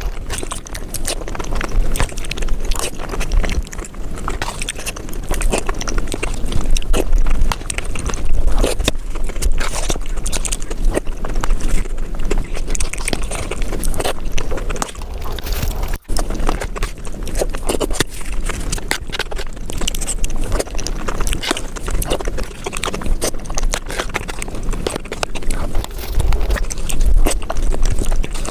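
Eating sounds played at five times speed: a rapid, dense run of crunching and chewing as crisp dahi puri shells filled with yogurt are bitten and chewed. The sound breaks off for an instant about sixteen seconds in.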